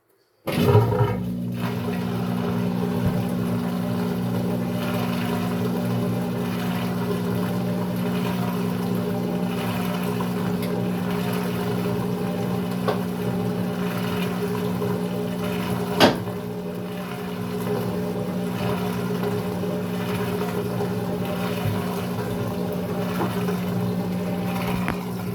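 Maytag top-load washer's drain pump starting suddenly and running with a steady hum as water gurgles through it, the tub draining during a tub-clean cycle. A single sharp click sounds about 16 seconds in.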